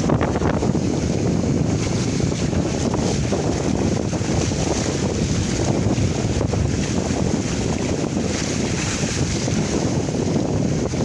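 Strong wind buffeting the microphone in a steady low rumble, with water rushing past the hulls of a Sibcat 18 sailing catamaran under way in a force 5 wind.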